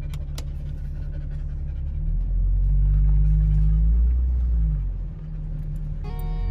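Low rumble of a car driving, heard from inside the cabin with the windows down. It swells louder for a couple of seconds in the middle. Strummed guitar music starts near the end.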